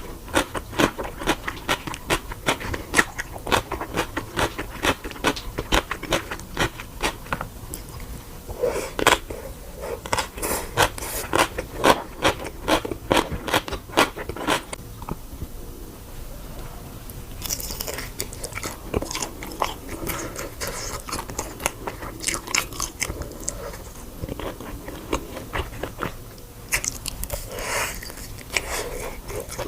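Close-up eating sounds: a person biting into and chewing crunchy food, with dense, rapid crunches for the first half. After a short softer pause the chewing turns quieter, broken by a few crisp bites.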